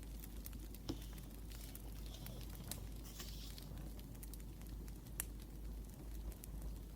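Wood fire crackling, with scattered sharp pops over a steady low rumble, and a few short soft scratches of a pen writing on paper.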